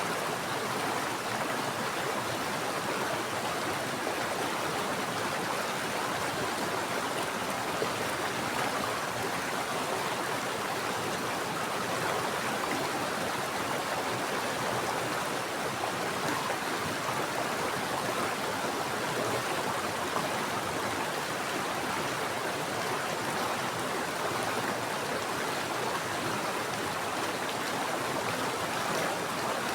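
Mountain stream of water running steadily over rocks, an even rushing with no changes.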